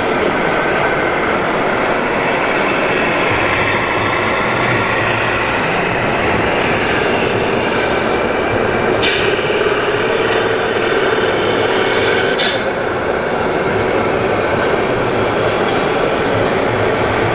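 Scale RC construction machines running: a steady whine and whir of electric drive motors and hydraulic pumps, with a higher-pitched sound that cuts in and out sharply a little past halfway.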